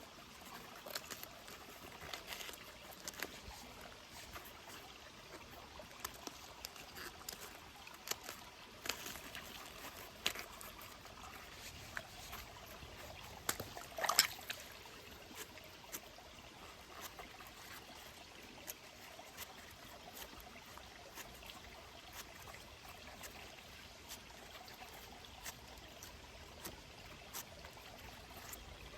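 Faint trickle of water under a steady hiss, with many small irregular clicks and one louder crack about halfway through.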